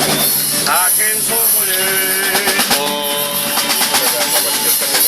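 Murga troupe voices in live performance: sliding and held sung notes over a steady hiss.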